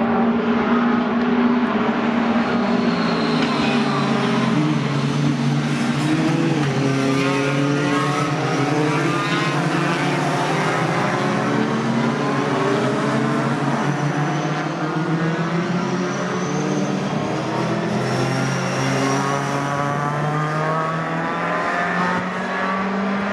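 Several racing pickup trucks' engines running loud on the circuit, their pitch rising and dropping as they accelerate and change gear.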